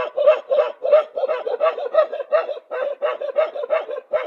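A dog barking rapidly and without let-up, about four high-pitched barks a second, with a brief pause about two-thirds of the way through.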